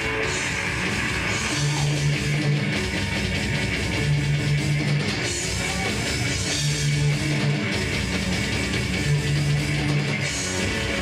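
Heavy metal band playing live: distorted electric guitars over a drum kit, with a low riff repeating about every two and a half seconds.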